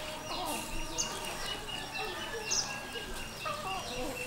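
Birds calling: a high chirp that falls in pitch, repeating about once a second, over a steady string of short, even high notes.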